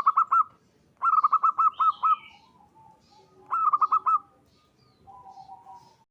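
Zebra dove (perkutut) cooing its calling song: three loud bursts of quick, staccato repeated notes, then a softer, lower coo about five seconds in.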